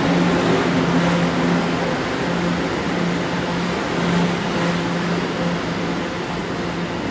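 An R211A subway train running, with a steady rumble of wheels on rail and a low hum that comes and goes.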